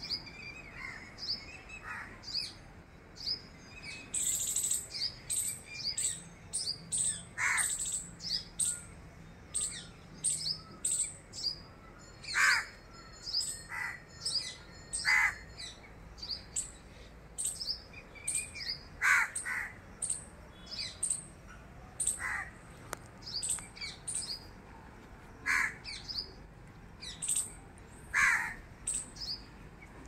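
Birds calling: short high chirps repeated throughout, with a louder, lower call that falls in pitch every few seconds.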